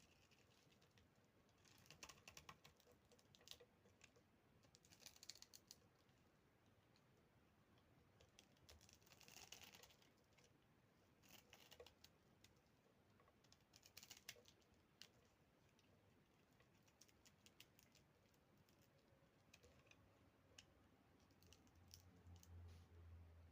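Brittle microwave-puffed soap being crumbled, giving faint, crisp crackling clicks in separate bursts with sparser ticks between them. A low hum comes in near the end.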